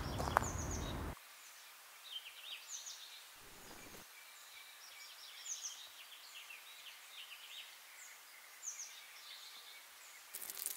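Small birds chirping, many short high calls over a quiet outdoor background. A loud rushing noise, like wind on the microphone, cuts off about a second in, and a brief crackle comes near the end.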